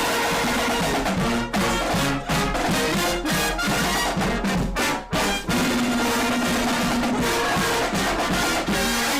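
Brass band playing a tune, with trumpets and trombones over drums.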